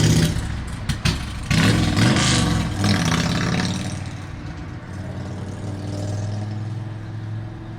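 A vehicle engine idling with a steady low hum. Louder, shifting noise over the first three seconds, with indistinct voices or handling.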